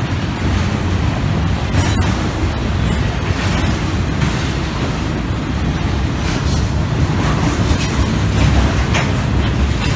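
A train rolling past close by: a steady low rumble of its cars and wheels on the rails, with a few faint clicks.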